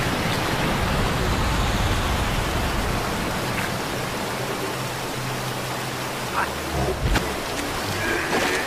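Steady rushing water noise in a cartoon soundtrack, with a few light clicks in the middle and a short pitched animal-like call starting near the end.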